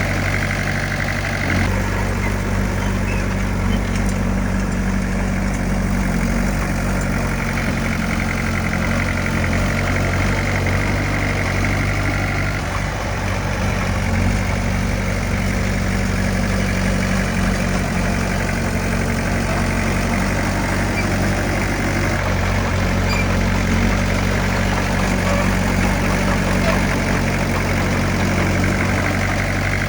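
Diesel engine of heavy earthmoving machinery running steadily at a constant speed, with a low, even hum.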